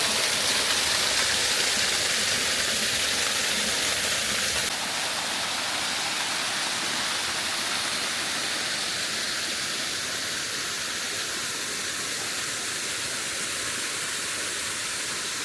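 Waterfall: a steady rush of falling water, dropping a little in level about five seconds in.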